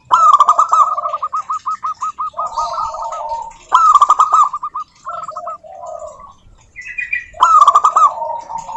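Zebra doves calling: a rapid run of short, clipped cooing notes, loud about three times (at the start, a little under four seconds in and near the end), with quieter runs of lower notes between them.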